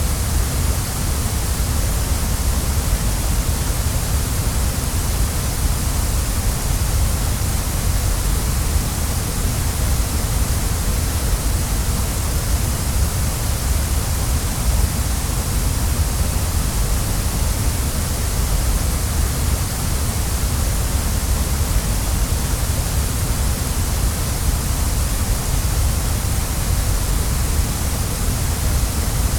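Waterfall rushing steadily: a dense, even wash of falling water with a deep rumble underneath and a bright hiss on top.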